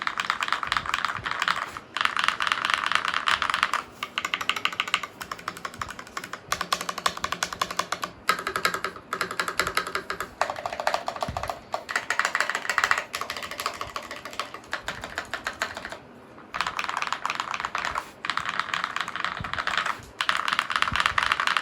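Fast typing on a Glorious GMMK mechanical keyboard with linear KTT Kang White switches lubed with Krytox 205g0, tape- and foam-modded, with clone GMK keycaps. The keystrokes come in rapid runs of a few seconds, with short pauses between them.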